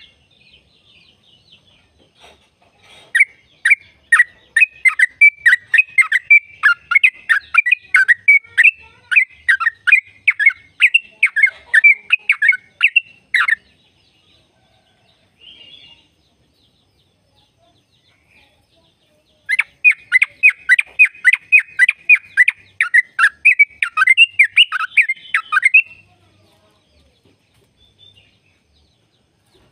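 Yellow-vented bulbul singing in rapid chattering runs of short, clear, downward-sweeping notes, a few notes a second. There are two long bouts, the first starting about three seconds in and the second starting past the middle, with a pause between them.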